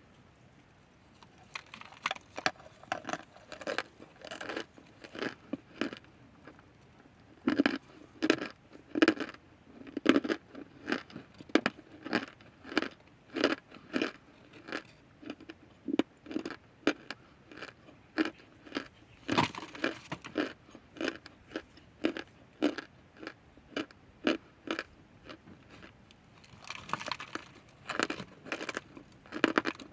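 Close-up chewing of crunchy chunks of cornstarch, a steady run of crunching chews about two a second that starts a second or two in.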